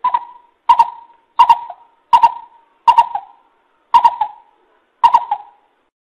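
Coucal (bìm bịp) calling: a run of seven short, sharp hoots, about three-quarters of a second apart, spacing out a little toward the end.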